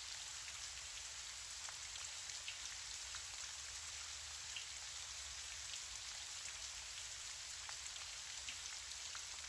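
Gentle steady rain: a soft, even hiss with scattered faint drop ticks.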